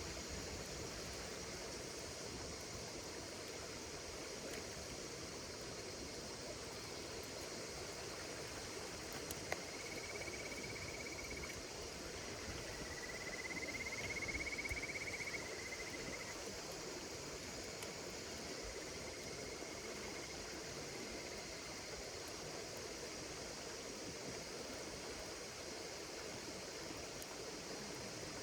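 A bonfire burning with a few faint crackles over a steady chorus of insects. Three trilling insect calls stand out between about ten and twenty seconds in, the middle one longest and loudest.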